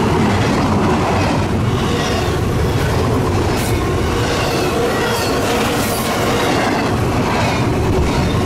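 Double-stack intermodal freight train's well cars rolling past at speed: a steady heavy rumble of steel wheels on rail, with a repeating clatter over the track and a faint high wheel squeal.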